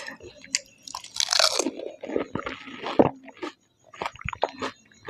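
Close-up eating of pani puri: crisp puri shells crunching and being chewed. The loudest, densest crunching comes about a second in, followed by a run of smaller crunches.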